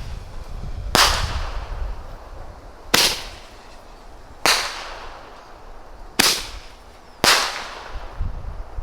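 Large multi-shot firework firing shell after shell: five sharp bangs roughly one to two seconds apart, each dying away in an echoing tail, with a softer one near the end.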